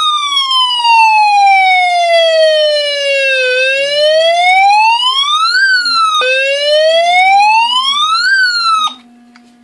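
Electronic siren fitted to a ride-on toy police car sounding a wail tone: one loud pitch sweeps slowly down, then up, twice over. It cuts off suddenly about nine seconds in.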